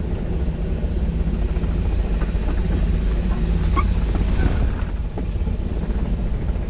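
Helicopter running, a steady low drone of engine and rotor.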